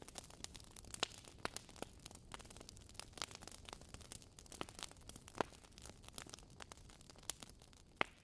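Fireplace wood fire crackling, with irregular sharp pops over a faint low rumble.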